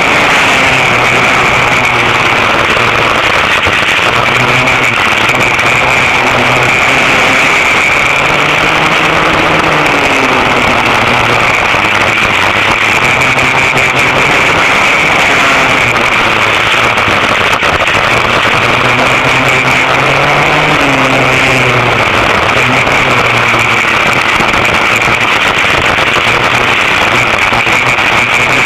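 Two-stroke engines of a vintage dual rear-engine go-kart running hard, their pitch rising and falling again and again as the throttle goes on and off.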